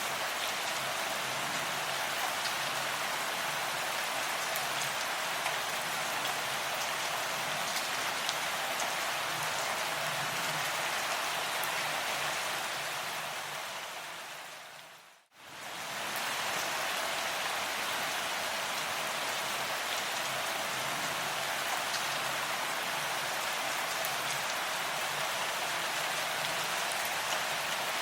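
Steady rain falling as a dense, even patter with fine crackling drops. About halfway through it fades down to a moment of silence and then comes straight back at full level.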